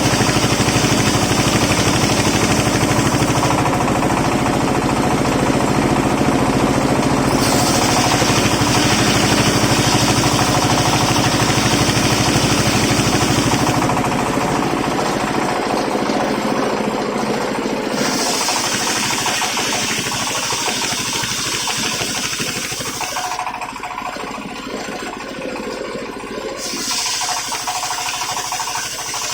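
Engine-driven circular sawmill running while it cuts waru wood into battens: a steady engine drone under a high hissing whine from the blade in the wood. The hiss drops away three times for a few seconds between passes, and the whole sound eases somewhat in the second half.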